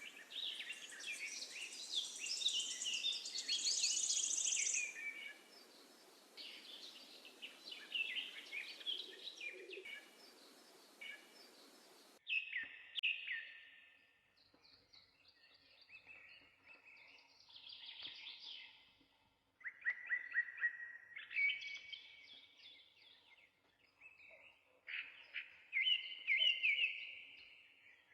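Songbirds singing and chirping, many quick, high phrases overlapping at first over a steady hiss, which cuts off abruptly about twelve seconds in; after that the song comes in separate phrases with short pauses between them.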